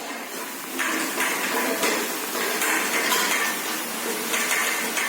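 Metal kitchen utensils clinking and scraping against a cooking pot in repeated, irregular strokes.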